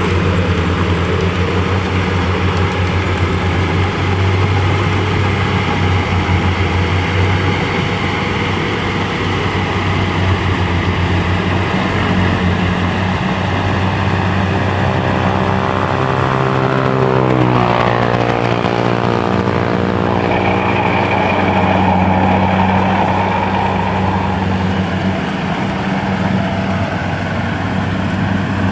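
Rice combine harvester's engine running steadily under load. About two-thirds of the way through, a higher engine tone sweeps down in pitch, as if the machine passes close by.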